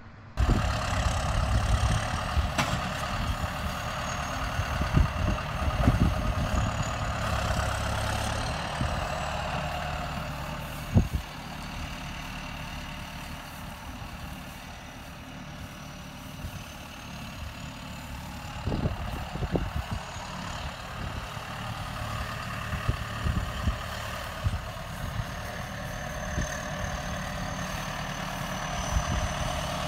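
Farm tractor engine running steadily, with a thin high whine that slowly rises and falls in pitch and wind buffeting the microphone; a few sharp knocks, the loudest about 11 seconds in.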